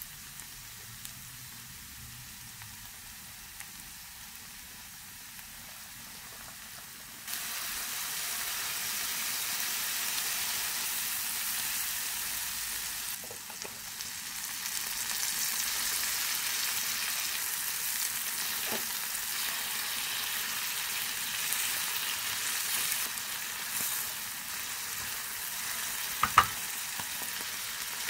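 Diced onion and garlic sizzling in oil in a frying pan, a steady hiss that suddenly gets louder about a quarter of the way through and again after canned mushrooms are tipped in. Two sharp knocks near the end.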